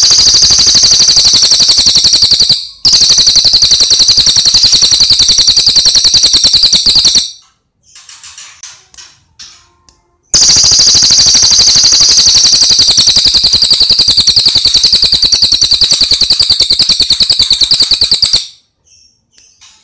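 Loud, very rapid rattling bird trills in long runs: one of about seven seconds with a brief break near its start, then a few softer calls, then another run of about eight seconds.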